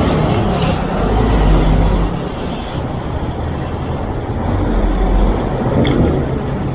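Road traffic: motor vehicles running and passing close by, a low engine rumble that swells twice over a steady roar of street noise.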